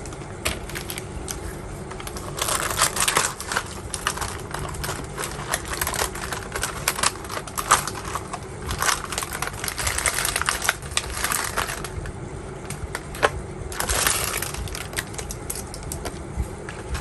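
Close-miked eating and food-handling sounds: irregular clicks, taps and crackles, some bunched into short crackly runs, over a steady low background hum.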